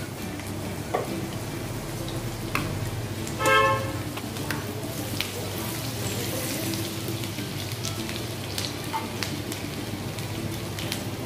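Chopped ginger and garlic sizzling in hot oil in a nonstick kadai, with a wooden spatula knocking and scraping against the pan now and then. About three and a half seconds in, a brief horn-like toot, the loudest sound.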